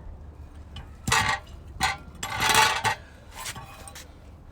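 Hammer blows on a seized wheel stud in a steel hub: sharp metal-on-metal clanks about a second and two seconds in, a longer ringing clatter in the middle, and a fainter strike near the end. The stud is rusted in and not coming out.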